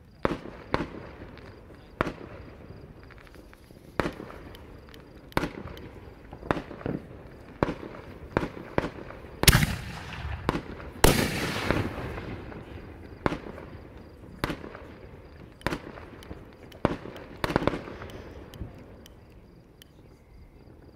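Ground-launched consumer fireworks firing a string of sharp pops and bangs, roughly one every second, with the two loudest blasts, trailing into crackle, near the middle.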